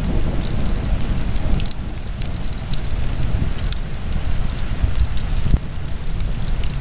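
Wood fire burning in a fireplace: a steady low rush with frequent sharp crackles and pops.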